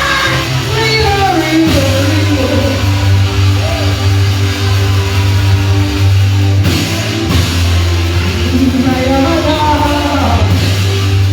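Loud amplified worship music: a band with held bass notes and a voice singing over it.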